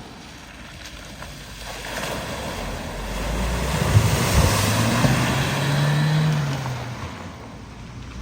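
A vehicle driving through a flooded ford: water spray and splashing build from about two seconds in, with the engine's note rising and then falling as it pushes through, and a couple of sharp knocks about four seconds in. It fades away near the end, with wind on the microphone throughout.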